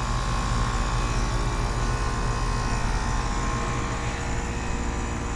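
Carrier Sentry central air conditioner outdoor units running: the steady hum of the compressors and condenser fans, with a steady mid-pitched tone over a low hum.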